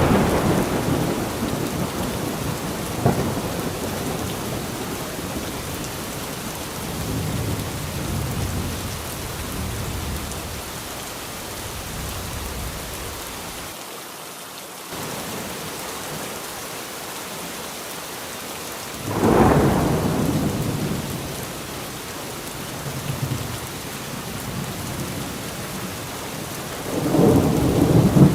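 Steady rain falling, with rolls of thunder: one fading away at the start, a louder rumbling roll about two-thirds of the way in, and another building near the end.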